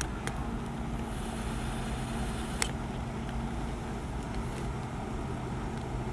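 Diesel engine of heavy road-building machinery running steadily with a low rumble, with a single sharp click about two and a half seconds in.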